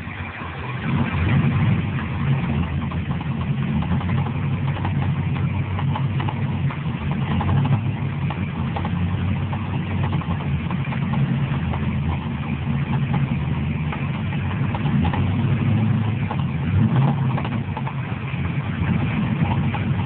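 2000 Pontiac Trans Am WS6's LS1 V8 idling with a knock, after being cranked with the coil packs unplugged. The owner takes it for fuel flooding the cylinders and expects it to work itself out.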